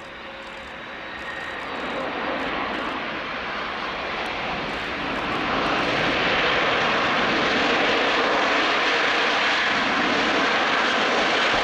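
Antonov airplane's engine running, a steady roar with a faint whine that grows louder over the first half and then holds steady.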